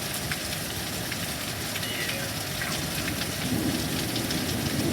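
Heavy rain falling in a thunderstorm: a dense, steady hiss with scattered sharp ticks of drops striking.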